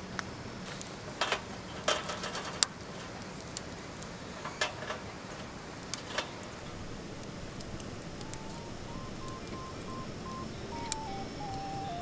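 Wood campfire crackling, with irregular sharp pops, most of them in the first half. A faint, simple background melody comes in about two thirds of the way through.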